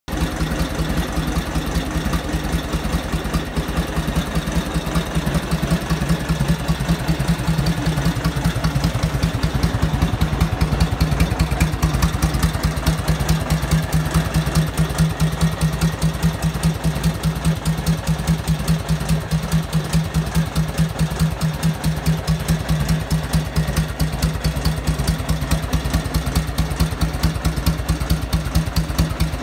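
1946 Harley-Davidson WL's 45-cubic-inch flathead V-twin idling steadily with an even, pulsing exhaust beat.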